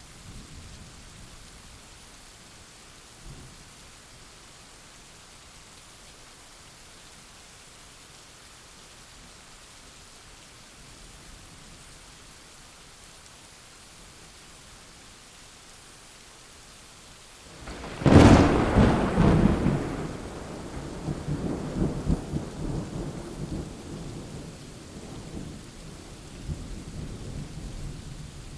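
Steady rain falling, then about two-thirds of the way in a sudden sharp thunderclap that rolls into a long, loud, low rumble of thunder that slowly dies away.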